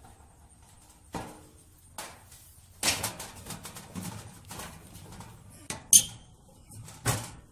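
Tools and equipment being handled and put away: a series of separate knocks, clatters and rustles, the sharpest a bright click about six seconds in.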